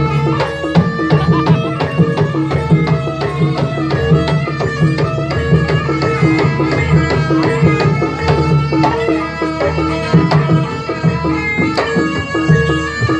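Javanese jaranan accompaniment music: a fast, steady pattern of kendang hand-drum strokes over repeating notes of tuned gamelan percussion.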